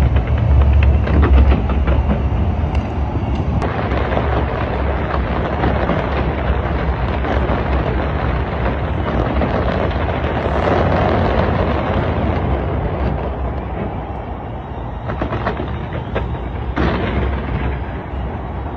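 A large fireworks display going off in a continuous barrage of booms and crackling bangs. The deepest booms come in the first couple of seconds, and the barrage thins a little later on, with a few sharp bangs near the end.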